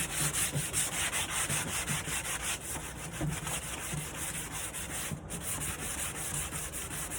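Wooden nightstand being sanded by hand, in quick, even back-and-forth rasping strokes, with one brief pause a little after five seconds.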